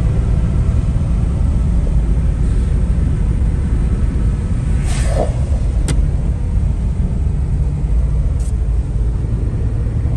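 Citroën SM's Maserati V6 engine running steadily with a deep, even rumble, with a couple of brief clicks about halfway through.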